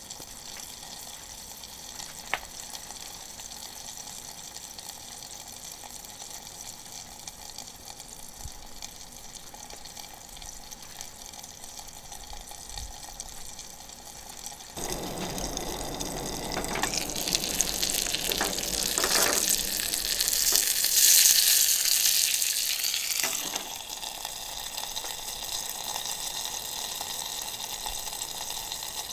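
Chicken thighs sizzling in butter in a small iron frying pan over a solid-fuel burner, a steady hiss. About halfway through the sizzle suddenly gets much louder for around nine seconds, then settles back.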